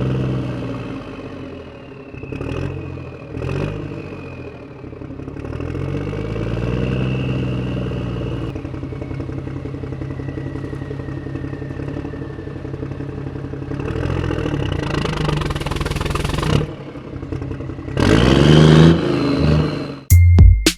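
Mini DIY toy tractor's motor running and clattering, its pitch rising and falling several times, with two sharp clicks a few seconds in. Music starts just before the end.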